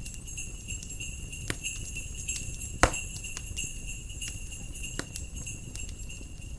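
Jingle bells ringing steadily over a crackling fire, with scattered sharp pops. The loudest pop comes a little under three seconds in. A low rumble sits underneath.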